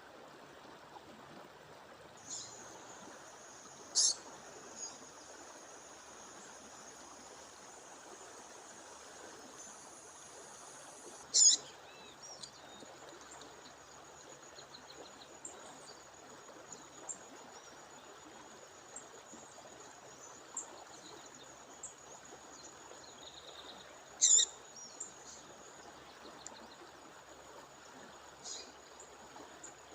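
A female bird giving short, sharp high call notes over the steady rush of a waterfall. The loudest notes come about 4, 11 and 24 seconds in, with a thin, high, steady tone running under them.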